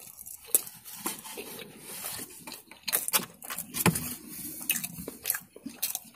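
Close-up chewing of a mouthful of battered fried chicken, with irregular crunches and clicks.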